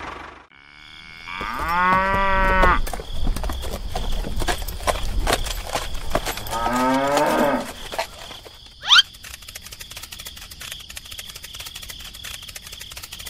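A cow mooing twice: a long, loud call about two seconds in and a shorter, fainter one about seven seconds in. A short, sharply rising squeak follows about nine seconds in.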